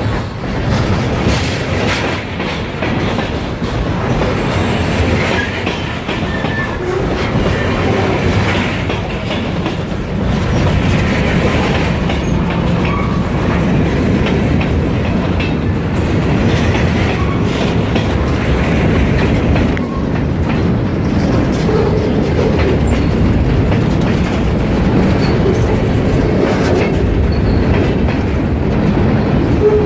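Freight train rolling past: a loud, steady rumble with the clatter of steel wheels over rail joints.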